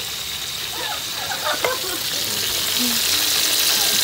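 Fish pieces and onion slices frying in hot oil in a metal wok, a steady sizzle that grows louder about three seconds in.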